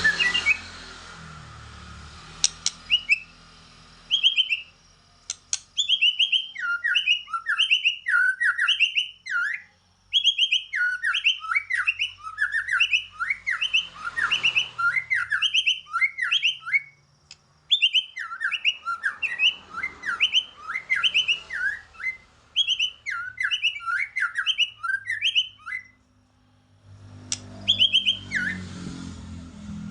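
White-rumped shama (murai batu) giving its aggressive fighting song: long runs of rapid, repeated sweeping notes. The song starts about three seconds in, breaks off briefly twice, and stops a few seconds before the end.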